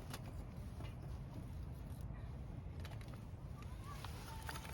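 Scattered light clicks and knocks of kindling and fire starter being handled while a campfire is laid, over a steady low rumble.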